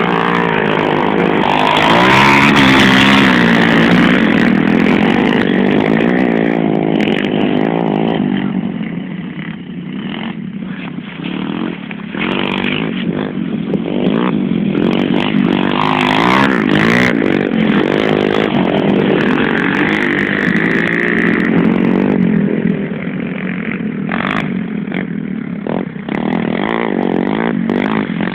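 Several pit bike engines running and revving as the bikes set off, their pitch rising and falling with the throttle.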